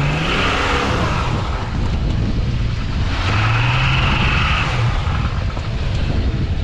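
Jeep Cherokee XJ engine running under load off-road. It revs up at the start and again about three seconds in, with a knocking rattle that onlookers take for worn connecting rods or pistons.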